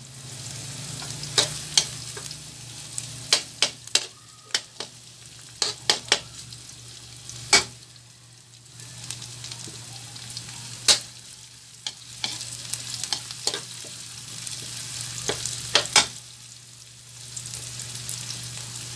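Chopped onion and garlic sizzling in hot oil in an aluminium wok while a metal spatula stirs them, clacking and scraping against the pan many times. A low steady hum runs underneath.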